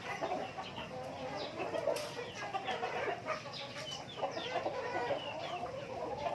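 A flock of chickens clucking, with many short overlapping calls and higher chirps.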